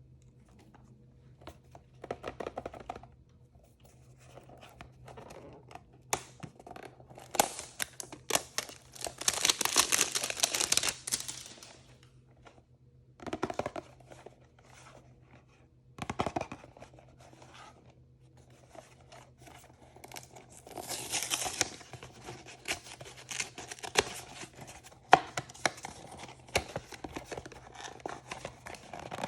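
Plastic blind-bag packaging being torn open and crinkled by hand, in several separate bursts with small clicks and taps between them; the longest tearing bursts come about a third of the way in and again about two-thirds through.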